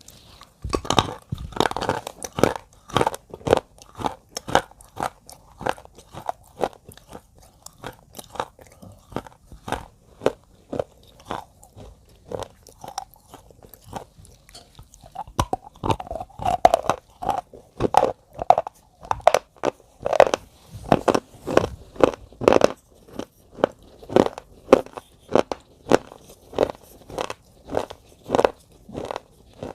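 Repeated crunching, about two crunches a second, uneven in strength and spacing.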